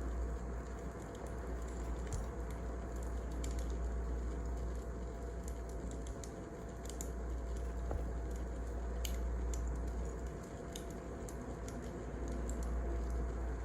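Wood fire burning, with sparse irregular crackles and pops over a steady low rush.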